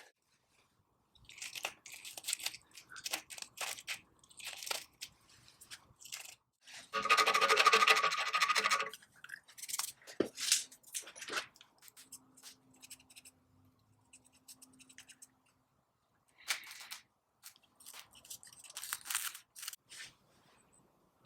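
Workshop handling sounds: a series of short, irregular scrapes and clicks, with one louder, noisy scraping burst lasting about two seconds around seven seconds in.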